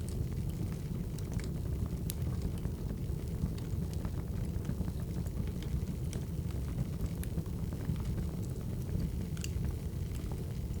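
Wood fire burning, with a steady low roar and scattered sharp crackles and pops from the logs.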